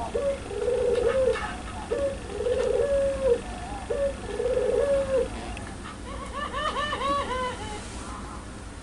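Barbary dove (puter) calling: three long, level coos in the first five seconds, then a quick run of short rising-and-falling notes, its laughing call, starting about six seconds in.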